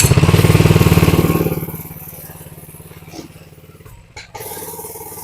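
Small single-cylinder minibike engine (Coleman 100cc) running hard for about the first second and a half, then dropping back to a lower, steady run. It cuts out briefly a little after four seconds, then carries on.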